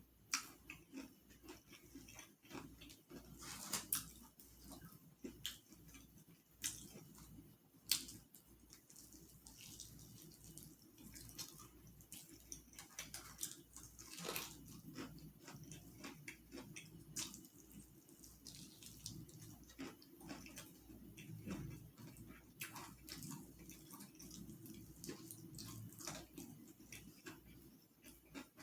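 A person eating, close to the microphone: chewing and lip smacking, heard as irregular wet clicks and smacks.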